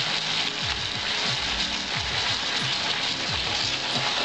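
Mixed vegetables sizzling and simmering in an uncovered steel kadai over a gas flame, a steady frying hiss. Background music with a steady beat plays under it.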